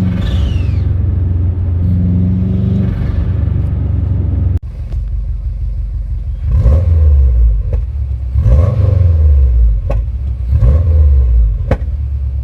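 Turbocharged flat-four engine of a Subaru Forester STI running steadily, then revved three times about two seconds apart. Each rev is let off with the rush of a tightened blow-off valve venting, giving only a little turbo flutter before it dumps.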